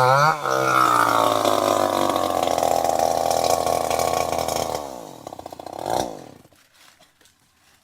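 Chainsaw engine running, then winding down about five seconds in, its pitch falling until it stops.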